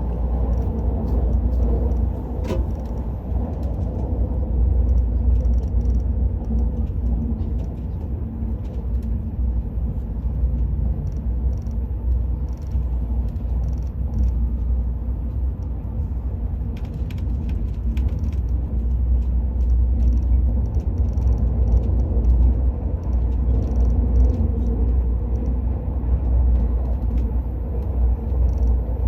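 Al Boraq high-speed train running at speed, heard inside the passenger cabin as a steady deep rumble with a faint hum and a few light ticks.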